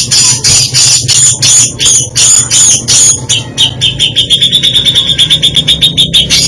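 A cucak jenggot (grey-cheeked bulbul) singing loudly, a rapid string of sharp repeated notes at about four or five a second. About four seconds in it speeds up into a faster, higher run of notes before slowing again near the end.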